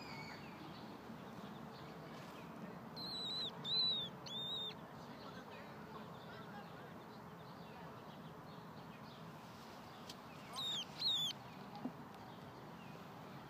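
A bird calling in two bursts of high, thin, down-slurred notes: three notes a few seconds in, then two more near the two-thirds mark, over a steady low background hiss.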